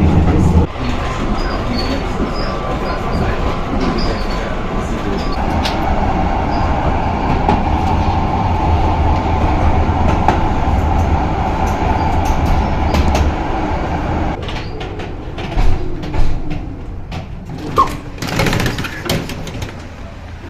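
Old tram running on worn track, heard from on board: a steady low hum and a higher whine that die away about two-thirds through as it slows, followed by a few sharp knocks and clatter and a brief squeal.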